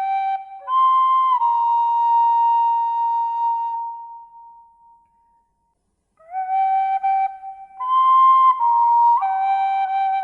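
Slow, calm flute melody: long held notes that step between a few pitches, the first phrase fading out about halfway through, a short silence, then a new phrase starting.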